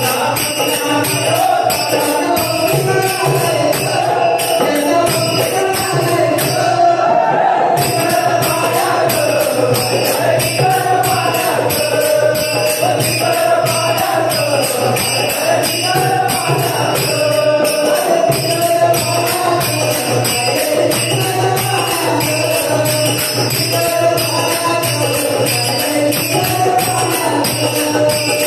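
Marathi devotional bhajan music: a wavering melody over a steady low drone, driven by a fast, constant jingling beat of small metal hand percussion.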